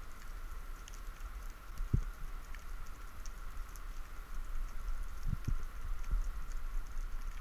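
Underwater sound picked up by a freediver's camera: a steady low rumble of moving water with a faint steady tone, scattered faint crackling clicks, and a few soft low thumps, one about two seconds in and several more between about five and six seconds in.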